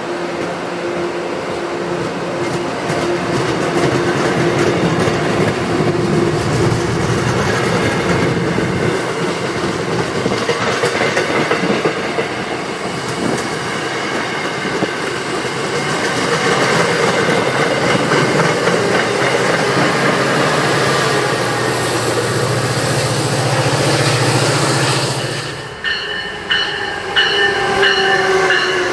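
Train passing close by: a continuous rumble of rail cars, with wheels clattering on the track. Near the end the sound drops suddenly and gives way to high wheel squeal.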